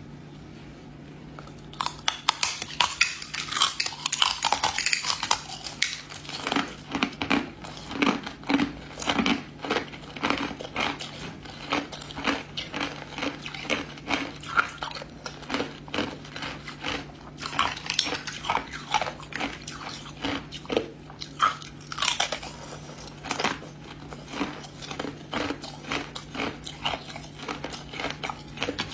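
Ice being bitten and chewed close to the microphone: repeated sharp crunches, several a second, as the pieces crack and grind between the teeth. They start about two seconds in.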